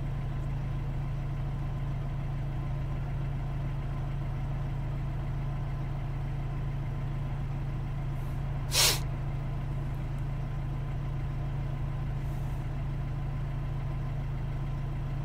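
Mercedes E250 CDI's 2.2-litre four-cylinder diesel idling steadily, heard from inside the cabin. One brief sharp noise about nine seconds in.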